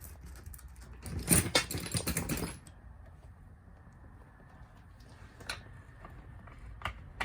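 Metal hand tools clattering and jangling in a dense burst about a second in, lasting about a second and a half, followed by a few single light clicks.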